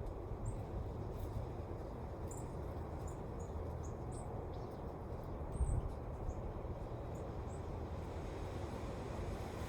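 Wind blowing steadily outdoors, with a stronger low gust about six seconds in. Faint short high chirps are scattered through it.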